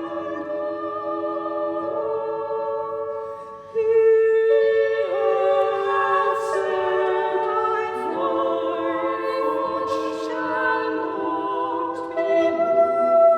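Voices singing a psalm in sustained, chord-like notes, with a short pause and then a louder entry about four seconds in.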